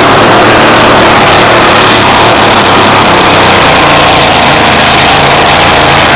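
Modified pulling truck's engine running at full throttle during a pull, very loud and steady.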